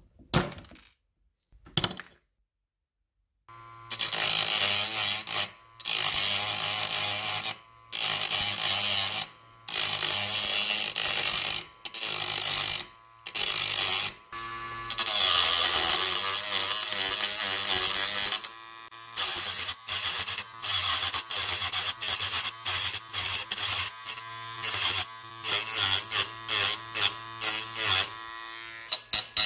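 Power tool running in short bursts, stopping and starting abruptly every second or two, after two short clicks and a brief silence.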